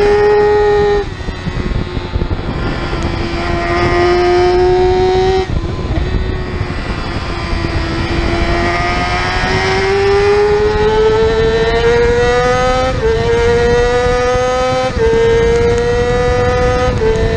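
Yamaha R6 race bike's 600cc inline-four engine heard onboard at racing speed. The throttle shuts about a second in, the engine picks up again with a slowly rising pitch, then pulls hard from about halfway, with three quick upshifts in the last few seconds, each dropping the pitch a step. A steady rush of wind runs underneath.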